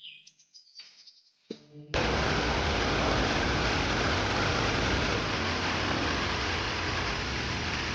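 Waterfall roaring: a steady, loud rush of falling water that cuts in abruptly about two seconds in, after a few faint bird chirps.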